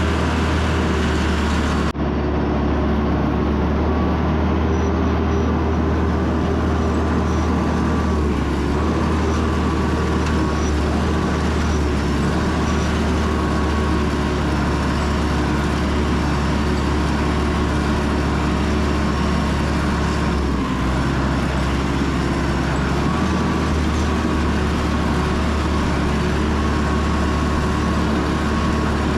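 Tractor diesel engine running steadily under work, with a deep low hum. There is one brief break about two seconds in.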